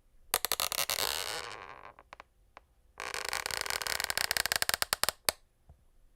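Wooden parquet floorboards creaking: two long creaks made of rapid crackling clicks, about a second and a half and two seconds long, with a few single ticks between them.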